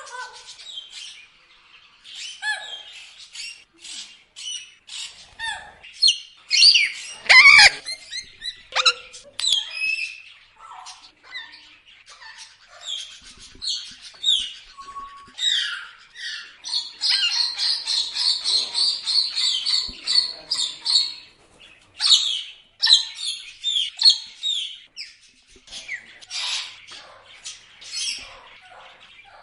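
Parrots squawking and chattering in many short, sharp calls, loudest about seven seconds in, with a fast run of chatter from about seventeen to twenty-one seconds in.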